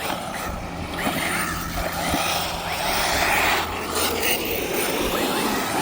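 Electric RC cars running on a track: brushless motor whine mixed with tyre and surface noise.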